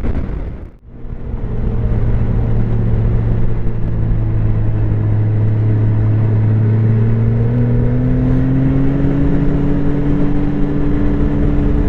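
Snowmobile engine running steadily under way, with a strong low hum and a stack of even tones. The sound drops out sharply just under a second in. Its pitch rises a little about two-thirds of the way through as the sled speeds up.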